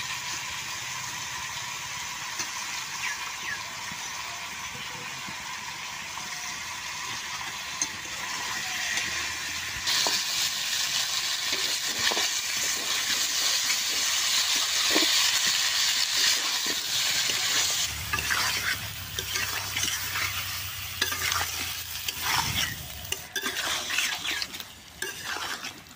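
Chicken pieces and potato chunks sizzling in oil in a steel karahi while being fried and stirred with a metal spatula that scrapes and knocks against the pan. The sizzling grows louder about ten seconds in, and from about eighteen seconds the spatula scrapes and knocks come more often.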